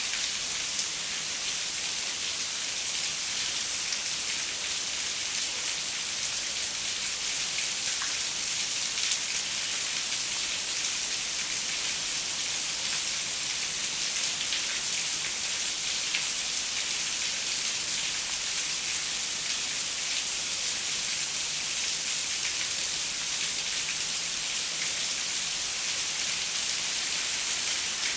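Steady rain falling on a window pane: an even hiss with scattered ticks of individual drops.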